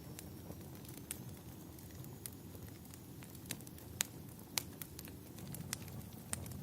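Wood fire burning with a steady low rumble and scattered sharp crackles and pops, two louder pops about four seconds in.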